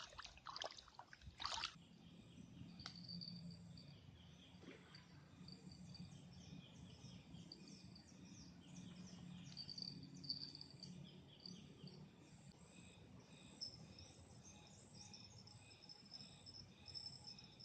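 Faint insects chirping in rapid, repeated pulses, with a low steady hum underneath. There are a few short, sharp sounds in the first second or two.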